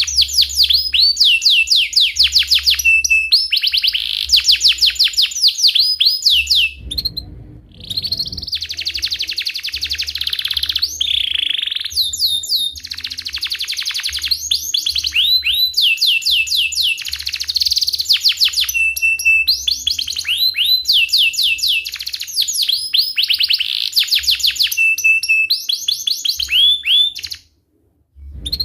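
Domestic canary singing a long, almost unbroken song of rolling trills and chirps: fast runs of repeated falling notes, broken briefly about a quarter of the way in and stopping shortly before the end.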